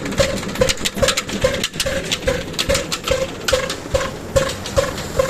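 Old 18 HP diesel engine running steadily, with an even beat of about two and a half clattering strokes a second.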